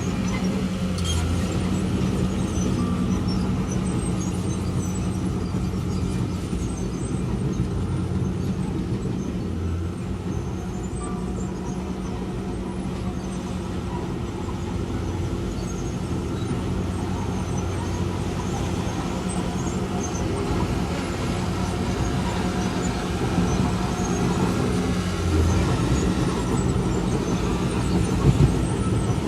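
Diesel engine of heavy earthmoving machinery running steadily, with a constant low hum, and two sharp knocks near the end.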